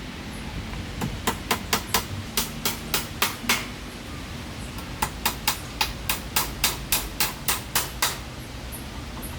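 Hammer striking repeatedly, as when driving nails into wood: two runs of quick, sharp blows, about four a second, with a pause of about a second and a half between them.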